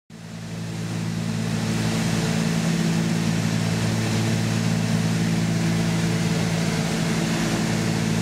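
Cessna 310's twin piston engines and propellers droning steadily in cruise, fading in over the first second or so.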